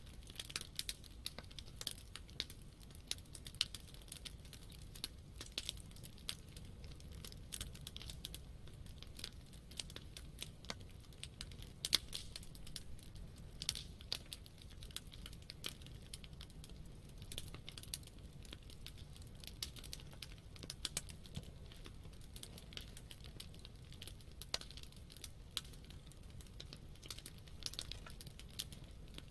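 Wood campfire crackling, with irregular sharp pops and snaps over a soft steady hiss; one pop about 12 seconds in is louder than the rest.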